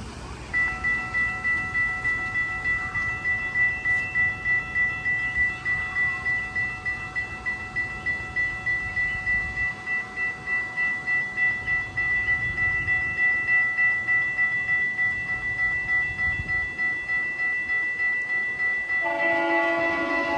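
Level crossing warning bell ringing steadily as its signals activate for an approaching GO Transit train. Near the end the locomotive's air horn starts to sound over the bell.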